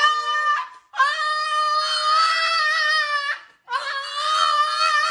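Dog howling in long, drawn-out, steady-pitched calls, each held about two seconds with brief breaks between them.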